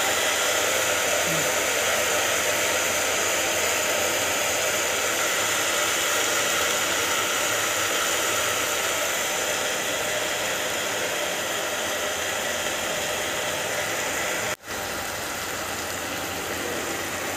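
Whole moong dal with skins frying with browned onions and spices in a pot: a steady, dense sizzle that cuts out for an instant near the end.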